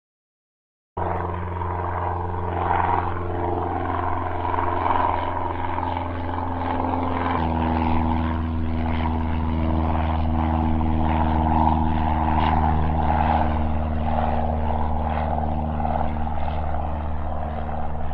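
An engine running steadily with a low, even hum; its pitch steps up slightly and it gets a little louder about seven seconds in.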